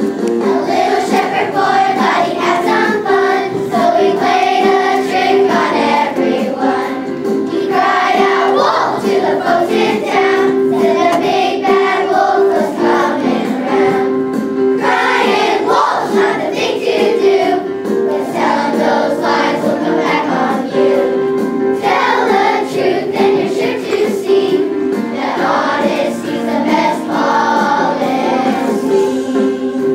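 A children's choir singing a song together over steady instrumental accompaniment.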